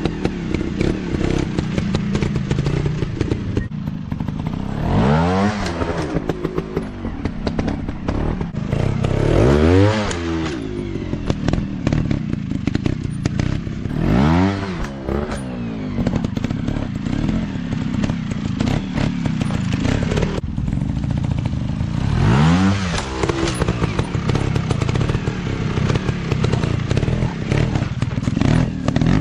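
Dirt bike engines running and revving. The pitch climbs and falls about every four to five seconds as the throttle opens and closes, over a steady drone of more than one engine.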